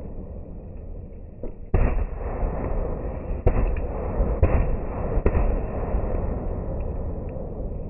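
Fireworks going off over a continuous rumble, with four sharp bangs spaced about a second apart, starting about two seconds in.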